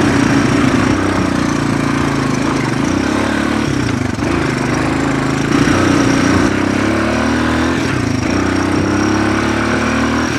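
1982 Honda CT200 ag bike's single-cylinder four-stroke engine running under way. The engine note dips briefly about four seconds in, then rises steadily through the second half as the revs climb.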